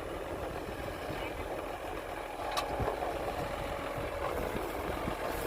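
Heavy diesel engine of earthmoving equipment running steadily, a little louder from just before halfway, with one short sharp click about halfway through.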